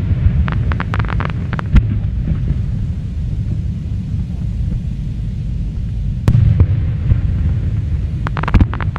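Aerial fireworks display: a continuous low rumble of shell bursts, with clusters of sharp crackling reports about a second in, once at about six seconds, and again near the end.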